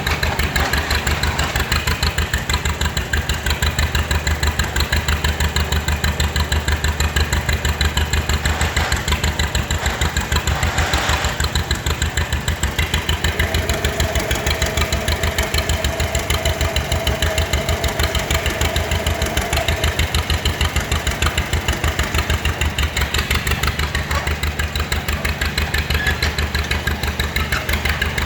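Two-cylinder engine of a 1945 John Deere BO Lindeman crawler tractor running steadily, with an even, rhythmic firing beat.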